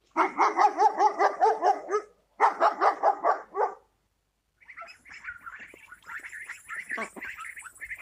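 A dog barking rapidly in two quick runs, the first about two seconds long and the second about a second and a half. From about four and a half seconds in, quieter, higher, choppy calls follow.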